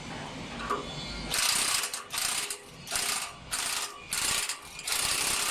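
A power tool on the block-making machine runs in five short bursts of rattling, hissy noise, then runs steadily near the end.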